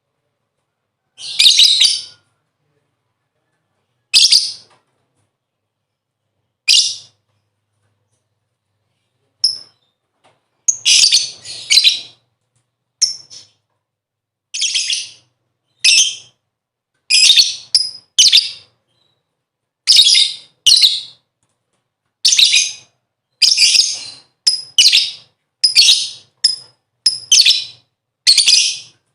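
Lovebird giving short, shrill chattering calls. They come every couple of seconds at first, then faster and in close pairs from about ten seconds in, with dead silence between them.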